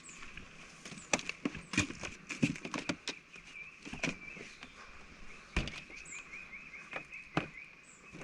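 Footsteps on the ground, irregular knocks and scuffs, over a steady high trilling call from the surrounding forest with occasional short high bird chirps.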